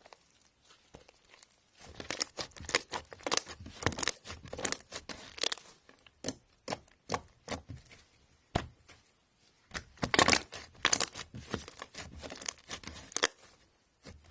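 Slime being pressed and squished, crackling and popping in two dense spells, the first starting about two seconds in and the second about ten seconds in, with scattered single pops between.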